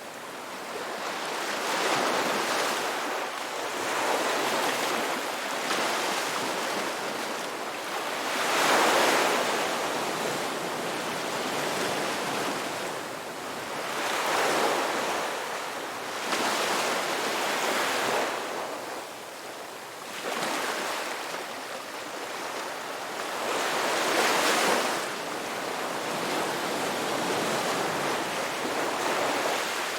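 Ocean waves washing onto the shore: a continuous hiss of surf that swells and ebbs every few seconds as each wave breaks and draws back, with the biggest surges about nine seconds in and again past two-thirds of the way through.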